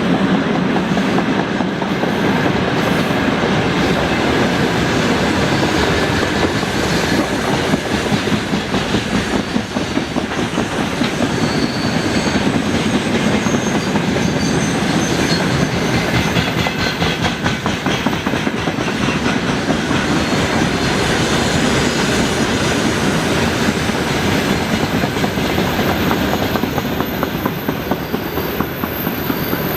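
Freight train wagons rolling past, their wheels clattering steadily over the rail joints. A thin, high wheel squeal from the curve comes in about halfway through and again near the end.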